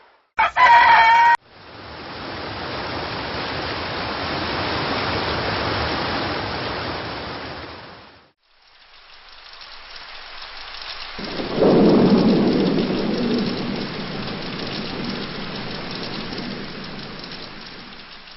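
A short, one-second crowing call, then steady rain that breaks off abruptly about eight seconds in and starts again. About eleven seconds in, a low rumble of thunder sets in suddenly, the loudest sound, and slowly fades under the rain.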